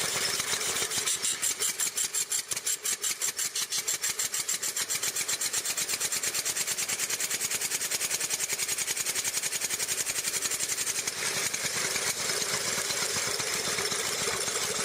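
Ford Quadricycle's small gasoline engine running, with a rapid, even beat of several pulses a second.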